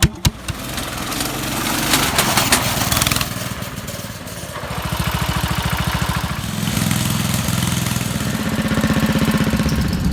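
Riding-mower engine running, its level and speed shifting a few times, with a few sharp knocks right at the start.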